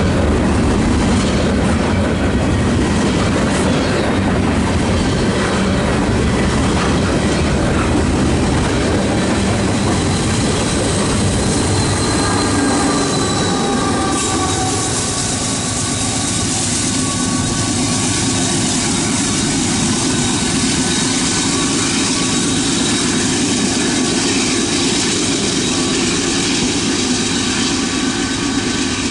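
Norfolk Southern freight train of flatcars loaded with large pipe rolling past, its steel wheels clattering on the rails with thin squeals. About halfway through the sound changes and drops a little, leaving a steadier rumble with high, steady wheel squeal tones.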